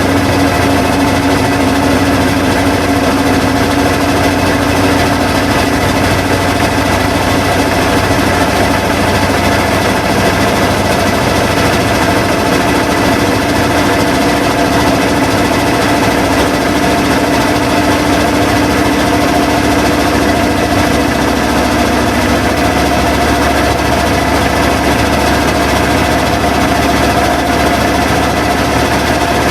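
Washing machines running with a loud, steady motor hum and rattle; about two-thirds of the way in one hum tone fades out and a deeper hum takes over, as a machine changes its cycle.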